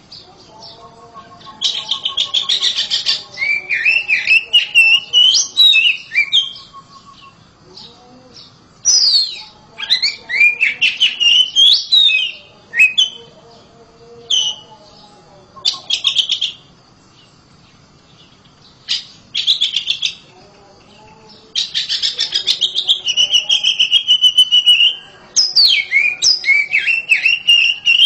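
Oriental magpie-robin (kacer) singing loudly: bursts of rapid, varied whistled notes that swoop up and down, in phrases of one to several seconds with short pauses between them.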